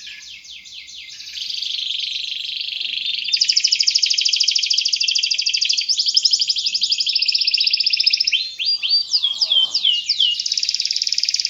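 Domestic canary singing a long, unbroken song of very fast trills that grows louder about three seconds in. Near the end comes a run of separate falling notes, then another rapid trill.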